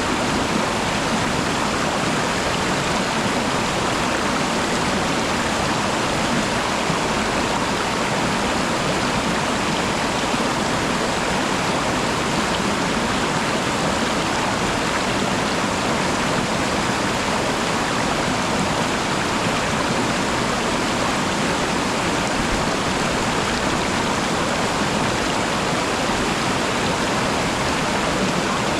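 Waterfall water rushing, steady and unchanging.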